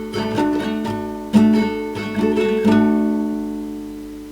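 Guitar strumming a few chords, the last one about two and a half seconds in left to ring and slowly fade.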